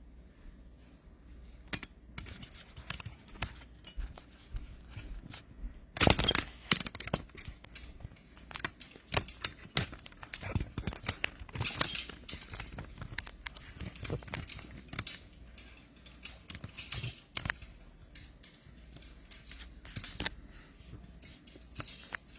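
Irregular clicks, taps and knocks of objects being handled on a table, with the loudest cluster of knocks about six seconds in.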